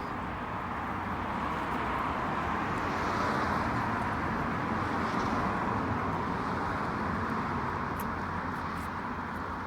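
Steady rush of road traffic noise, swelling a little in the middle and easing off near the end.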